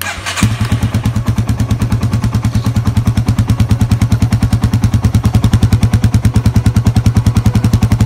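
Yamaha Serow 225's air-cooled single-cylinder four-stroke engine catching about half a second in, then idling with an even, rapid beat of about ten exhaust pulses a second.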